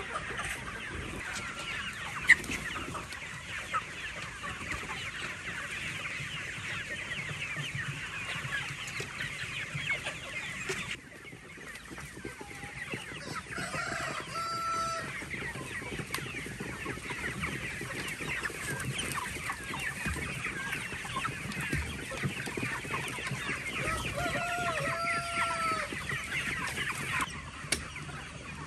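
A flock of poultry clucking and chattering, many short calls overlapping, with a few longer drawn-out calls in the middle and near the end.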